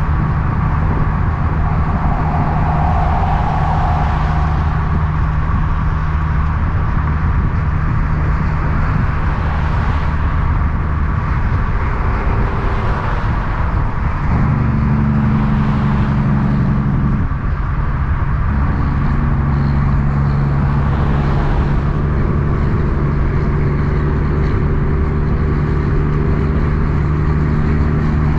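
Diesel big-rig truck engine running steadily, with a low droning note whose pitch shifts about halfway through.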